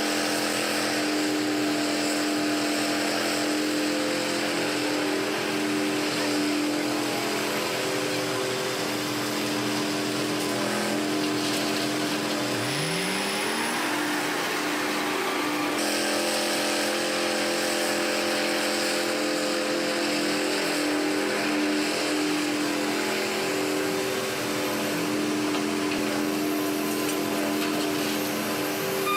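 Heavy machinery engine running steadily, with a brief rising pitch about twelve seconds in.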